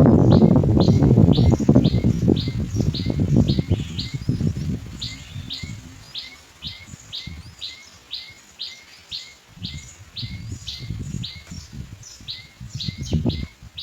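Birds chirping: a short high note repeated evenly two or three times a second, over a loud low rustling for the first few seconds that fades away, with weaker rustles near the end.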